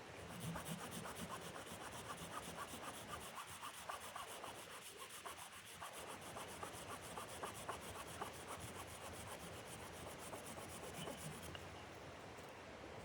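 Rapid, even scraping strokes, several a second, like a tool rasping across wood; they stop about eleven and a half seconds in.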